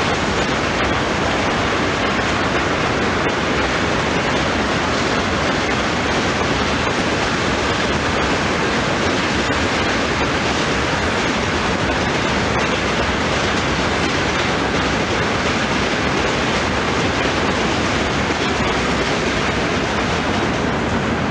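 Freight train of oil tank cars rolling past on the rails: a steady, even rushing rumble of wheels on track with a few faint clicks.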